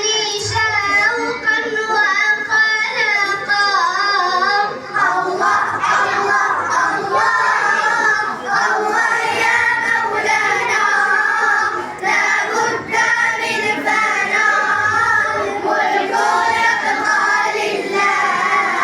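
A child singing solo in a high voice, with long melodic lines that slide and waver in pitch.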